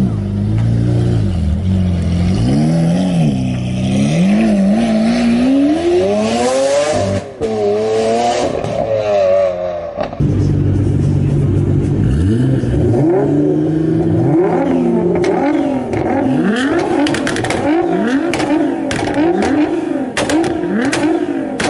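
High-performance car engines revving hard, the exhaust note rising and falling through repeated rev sweeps. About ten seconds in it switches to another car, revved in quick repeated blips with sharp crackles near the end.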